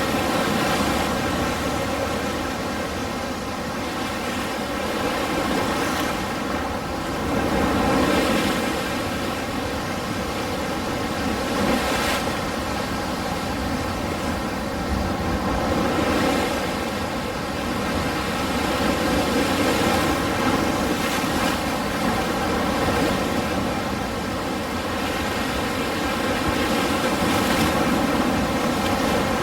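Ocean surf: a steady rush of breaking waves that swells and eases every few seconds.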